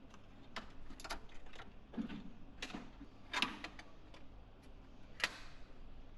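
Scattered sharp clicks and light knocks, about half a dozen spread irregularly, from metal oven parts and the thermostat being handled and fitted by hand.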